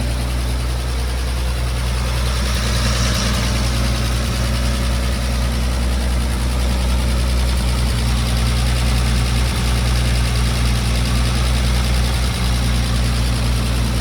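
1950 Chevrolet 4400 dump truck's Stovebolt inline-six idling steadily with its fan turning, newly running again after years of sitting.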